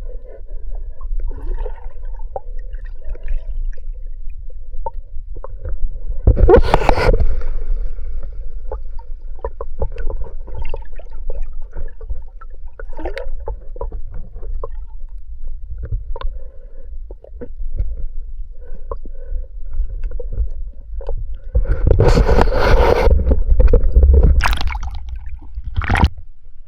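Water sloshing and gurgling around the microphone, muffled and rumbling, with scattered knocks and two louder rushing splashes: one about six seconds in and a longer one near the end.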